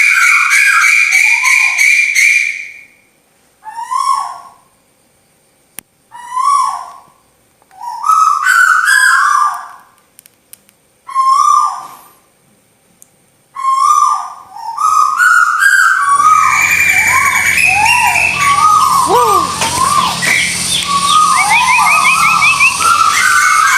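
Recorded tuwu bird lure call: short whistled notes that bend up and down, repeated in bursts with short silences between them. From about two-thirds of the way in, the calls run on without a break, overlapping, over a low steady hum.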